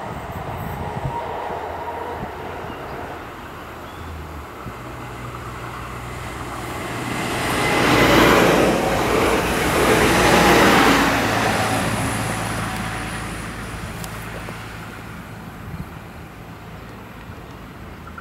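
Diesel multiple unit passing on the line: its engines drone and its wheels run over the rails, building to a peak about eight to eleven seconds in and then fading as it moves away.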